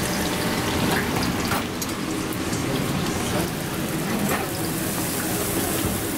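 Hot oil sizzling and crackling steadily as samosas deep-fry and dosas cook on a flat griddle, with a low steady hum beneath.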